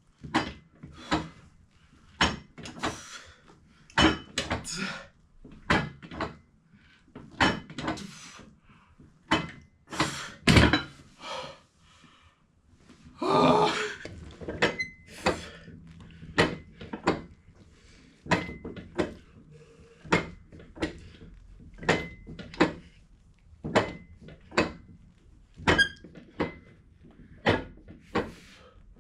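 A run of wooden-sounding thunks and knocks, roughly one a second, in a small room, typical of home-gym equipment working through reps; a longer, rougher noise comes about thirteen seconds in.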